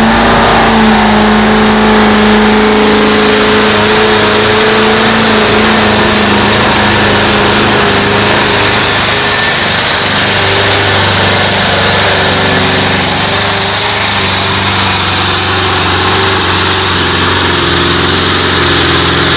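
Competition pulling tractor's engine running loud and steady under load. Its pitch holds high for about eight seconds, then drops and holds lower to the end.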